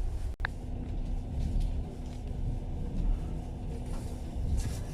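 Passenger train running along the track, heard from inside the carriage: a steady low rumble.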